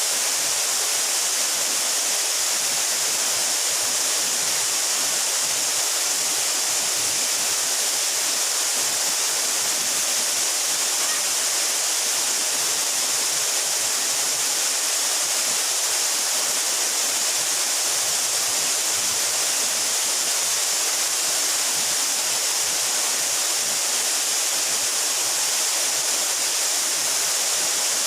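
A 12-metre mountain waterfall pouring steadily, a constant rushing hiss of falling water with no change.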